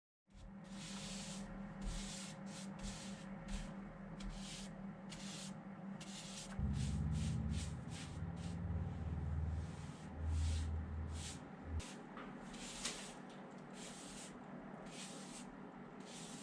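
Repeated short hissing bursts at an uneven pace over a steady low hum, with a louder low rumble about halfway through.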